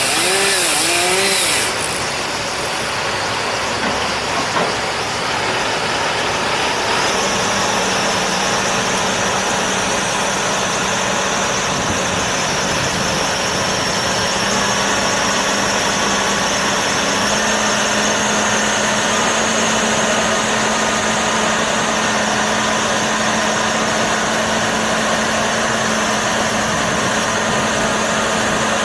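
A chainsaw revving briefly, cutting off about two seconds in; then a machine's engine running steadily, its hum rising slightly in pitch over the rest.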